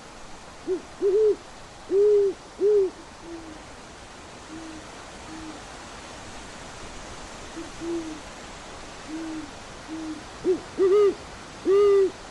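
Owl hooting over a steady background hiss: a series of short hoots, each rising then falling in pitch. Loud ones come in clusters about a second in and again near the end, with fainter hoots in between.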